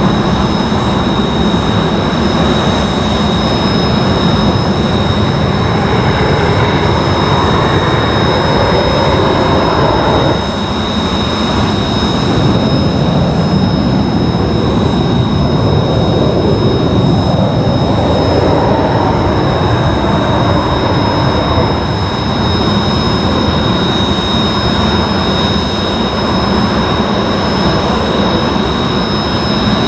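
F-35A fighter's Pratt & Whitney F135 jet engine running, a loud continuous roar with a steady high whine over it.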